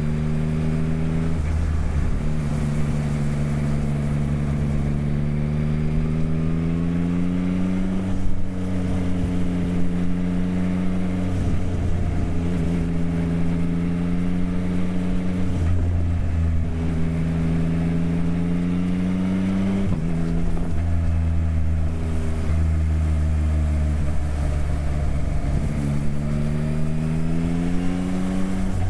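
Motorcycle engine on the move, its revs climbing slowly and dropping sharply at each of about six gear changes.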